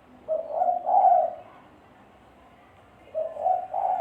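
Spotted dove cooing: two phrases of low coos, one starting about a quarter second in and lasting about a second, the next starting near the end.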